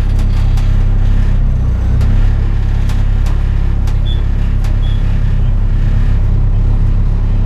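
Honda Prelude's H22 2.2-litre four-cylinder engine running at low, steady revs, a deep even rumble with scattered sharp clicks and rattles.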